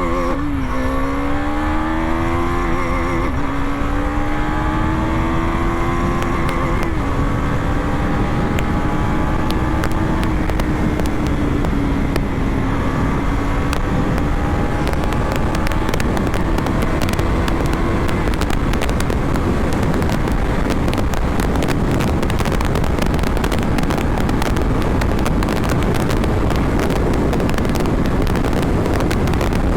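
KTM Duke 250's single-cylinder engine breathing through a full-system Akrapovič exhaust, accelerating hard through the gears. Its pitch climbs, drops back at shifts about three and seven seconds in, then rises slowly until about eighteen seconds in. After that, wind rushing over the microphone at speed covers it.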